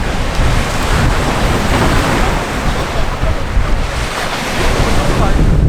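Strong gale-force wind buffeting the microphone with a deep rumble, over waves breaking on the shore.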